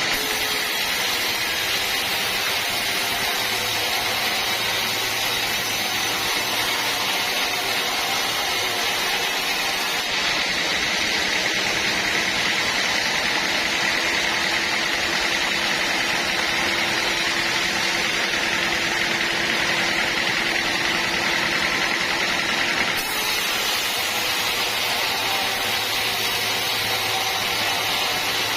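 Band sawmill running steadily while sawing a teak log: an even machine noise with a high, steady whine over it.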